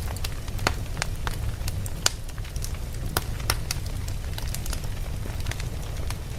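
Campfire crackling: burning logs giving off irregular sharp pops and snaps over a steady low rumble. The pops come thick in the first few seconds, then thin out.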